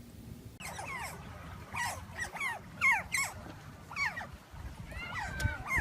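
A dog whimpering: a run of about ten short, high cries, each falling in pitch.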